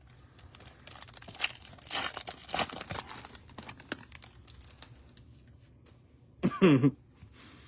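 Foil trading-card pack wrapper being torn open and crinkled, a quick run of crackling rustles for about three seconds, fainter rustling after. A brief voice sound near the end.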